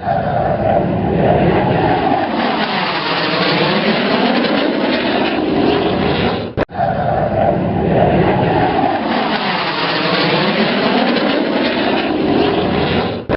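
Aircraft engine noise, a loud steady rush with a slowly sweeping, phasing tone like a passing plane. The same stretch plays twice, with a brief dropout about halfway.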